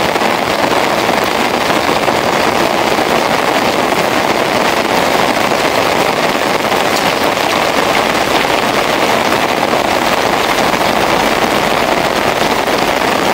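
Steady, loud rain falling on soaked ground and puddles.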